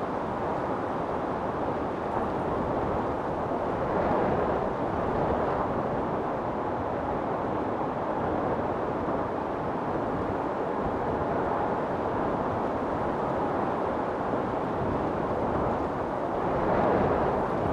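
Strong wind blowing steadily in a storm, a constant rush that swells in gusts about four seconds in and again near the end.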